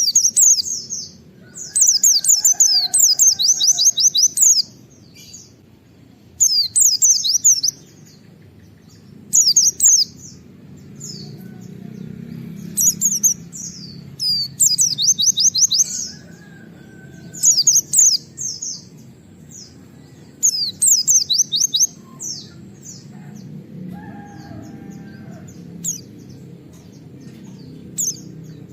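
A pleci (white-eye, Zosterops) singing in repeated bursts of rapid, high 'wit wit' notes. Each burst lasts a second or two, with short pauses between them, over a low steady background noise.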